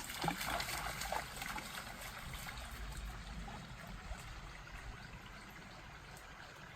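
Mountain stream water running steadily, with a few splashes in the first second or so.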